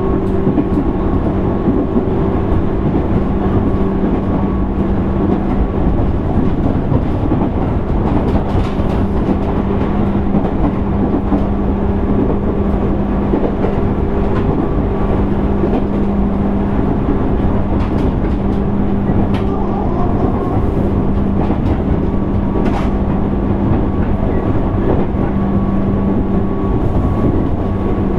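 Inside a JR East 205 series 600 subseries electric train's motor car under way: a steady rumble of wheels on rail and a hum that holds one pitch, with a few faint clicks.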